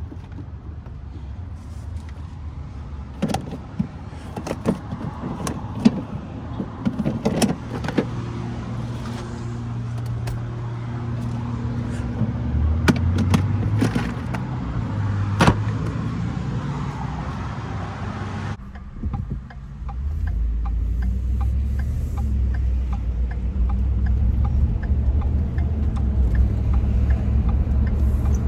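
Truck engine running while driving: a steady low hum that grows louder in the second half. A series of sharp clicks and knocks comes in the first several seconds.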